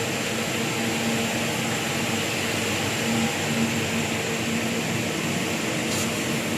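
Automatic scaffolding rosette welding machine running: a steady hiss of machine noise over a constant electrical hum, with one short click near the end.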